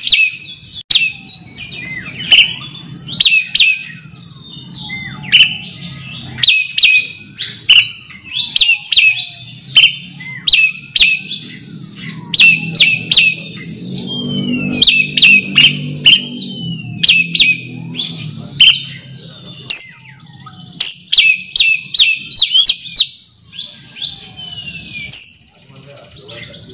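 Oriental magpie-robin singing a loud, varied song of sharp chips and clear whistles in rapid repeated phrases, given as a challenge call to a rival.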